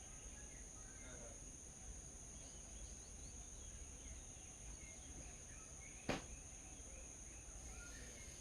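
Faint steady insect drone, two high even tones, with scattered faint bird chirps. A single sharp click stands out about six seconds in.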